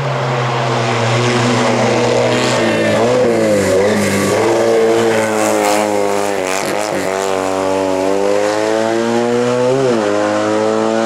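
Race car engine under hard acceleration. Its pitch climbs steadily and drops back sharply at gear changes, three times.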